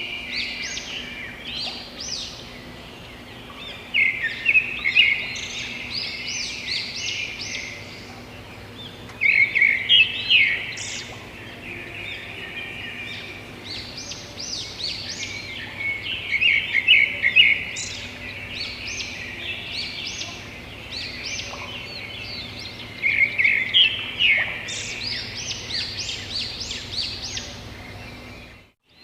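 A bird calling in bursts of rapid, high chirps that recur about every six seconds, with quieter scattered chirps between, over a steady faint background noise.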